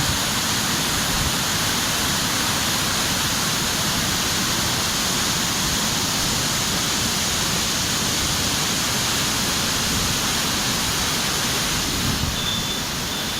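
Floodwater of the Vamsadhara River rushing steadily, an even rushing noise that does not change.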